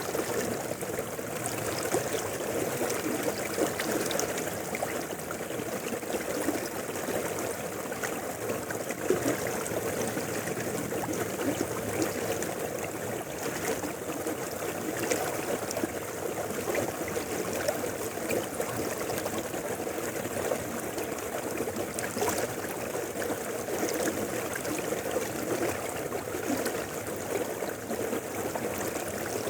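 Mountain river flowing steadily, an even rush of water with faint scattered splashes.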